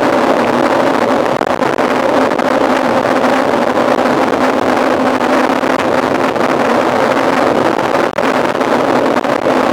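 Steady rushing noise with a constant low hum from riding a mountain bike at speed, wind and tyre noise on the rider's camera microphone. There is a brief drop about eight seconds in.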